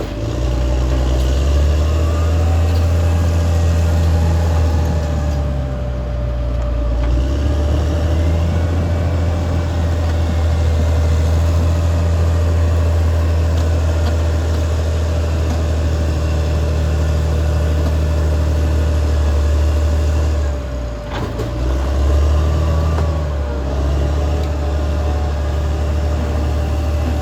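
Caterpillar D6R XL bulldozer's diesel engine running steadily, a deep engine note with a constant high whine over it. The sound dips briefly about 21 seconds in, then picks up again.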